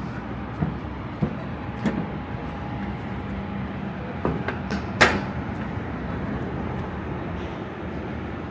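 Steady hum of a vehicle running, with a few light clicks and one sharp clack about five seconds in.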